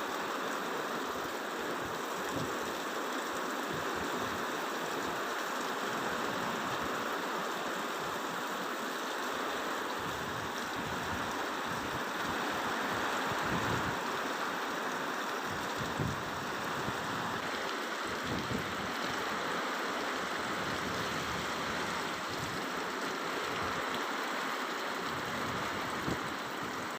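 Heavy rain falling steadily, a constant even hiss of a downpour.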